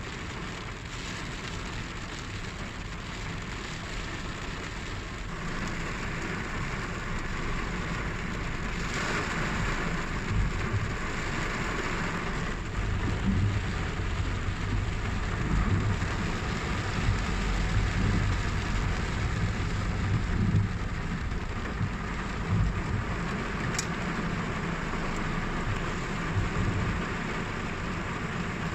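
Steady rainfall, with a low rumble underneath that grows stronger about ten seconds in.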